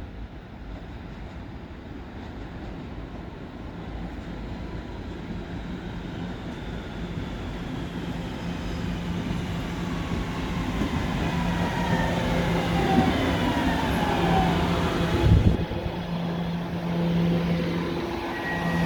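Staten Island Railway electric train arriving at a station, growing louder as it approaches, with a whine that falls in pitch as it brakes. About 15 seconds in there is a sharp thump, the loudest moment, and then a steady low hum as the train stands.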